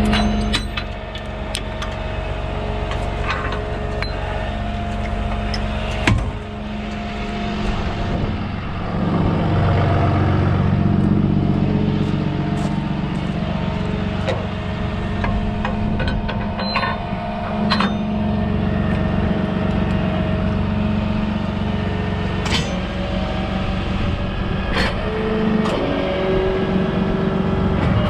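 A vehicle engine running steadily, its pitch dipping and rising about nine to twelve seconds in as the load changes, with sharp metallic clanks now and then.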